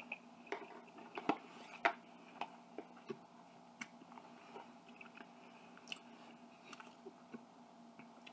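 A person chewing a mouthful of chicken and broccoli close to the microphone, with irregular sharp mouth clicks and smacks; the loudest two come a little over a second in and just under two seconds in.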